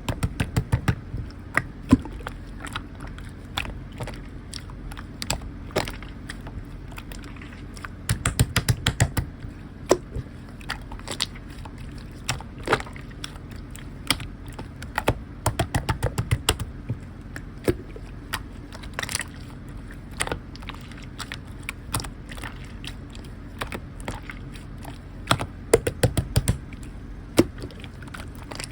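Clear slime being handled: sticky clicks and pops as it is pressed and folded, with several runs of quick popping clicks.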